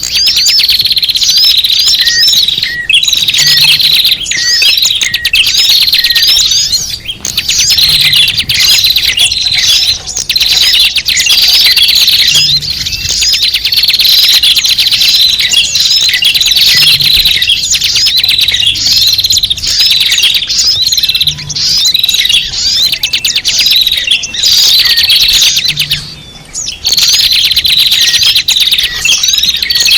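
A noisy crowd of small birds chirping and twittering at once, dense and continuous, from a bird-lure (pikat) recording used to call small birds in. The chatter repeats about every four and a half seconds, like a loop.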